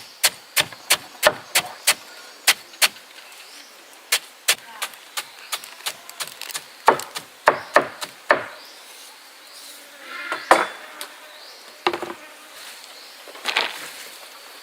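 Repeated sharp knocks in quick runs of about three a second, with short pauses between the runs.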